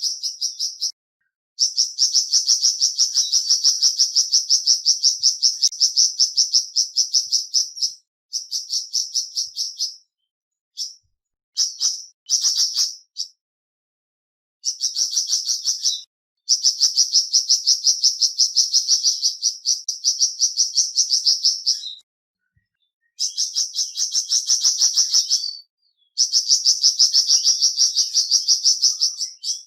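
Flamboyan bird song: long trains of rapid, evenly repeated high chirps, each run lasting several seconds and broken by short pauses, with a few brief fragments in the middle.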